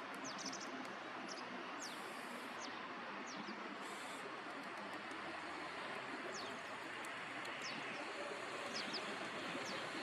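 Outdoor ambience: a steady background noise with short, high chirps of small birds scattered through it.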